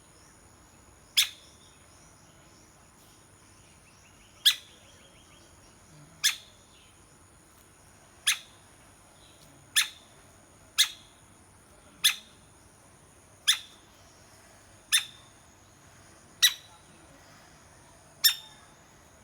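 A woodpecker giving single sharp call notes, eleven of them, one every second or two, over a steady high-pitched hum.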